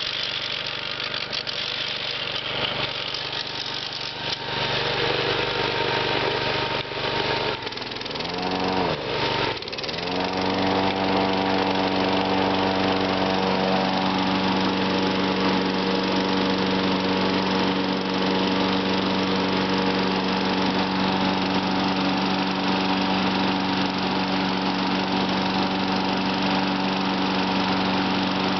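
John Deere riding mower's engine running. About eight seconds in its speed dips and surges back, then it settles into a steady, slightly faster and louder run.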